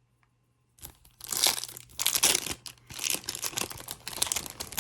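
Plastic wrapper of a basketball trading card pack being torn open and crinkled by hand, with irregular crackling starting about a second in after a brief hush.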